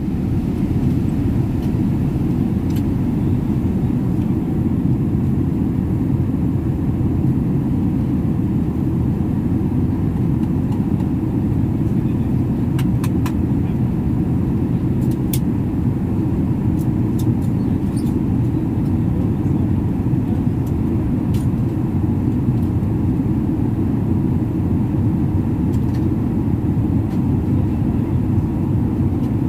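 Steady low rumble of an airliner's cabin in cruise flight, with a few faint clicks about halfway through.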